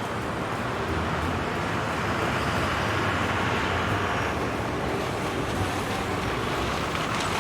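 Bus driving, a steady engine and road noise; the hiss eases a little about four seconds in.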